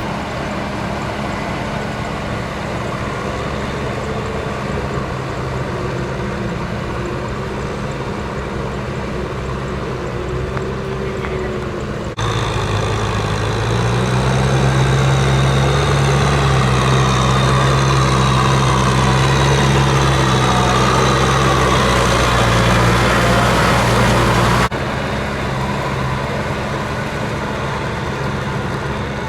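Kubota M6040SU tractor's diesel engine running steadily at working revs. It jumps abruptly louder about twelve seconds in and drops back just as suddenly about twenty-five seconds in.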